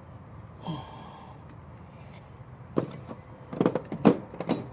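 A short breath-like vocal sound about a second in, then a run of clicks and knocks from tools being handled around the engine bay, coming thick and fast near the end.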